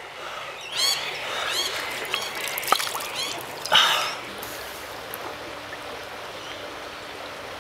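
Creek water trickling, with birds chirping again and again over the first four seconds or so. A single sharp click comes near the middle.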